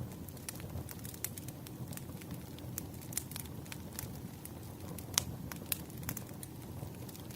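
Campfire burning: a steady low rumble of flames under frequent sharp crackles and pops of burning wood, with the loudest pop about five seconds in.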